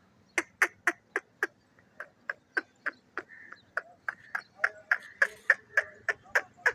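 Pet parrot making a rapid series of sharp clicks, about three or four a second, with faint chirps between them from about halfway through.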